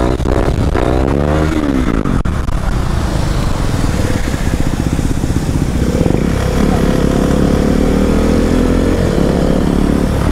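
Motorcycle engine heard from the rider's seat, revving up and down twice in the first two seconds, then pulling steadily. Its pitch climbs about six seconds in and slowly falls away.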